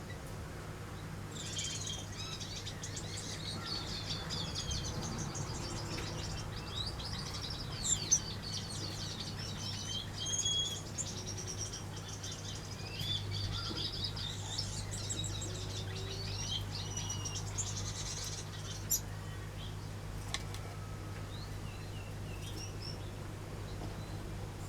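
Aviary birds chirping and twittering in a dense chorus that thins to a few scattered calls near the end, with a couple of sharp clicks along the way. A steady low hum runs underneath.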